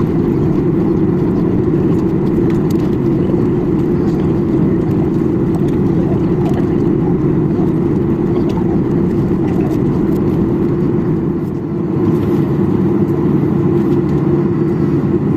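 Steady low rumble of a Boeing 737-800 passenger cabin with the engines running, with a brief drop in level about three-quarters of the way through.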